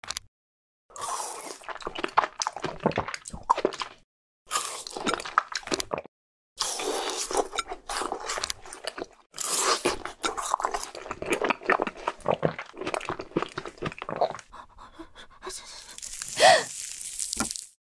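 Plastic LEGO bricks being pulled apart and handled: rapid crackling clicks in several bursts with short pauses between them, and one louder sound with a briefly falling tone near the end.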